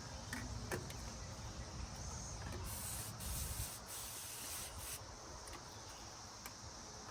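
Aerosol can of oven cleaner spraying in several short hisses onto a diesel engine block, with a few light clicks.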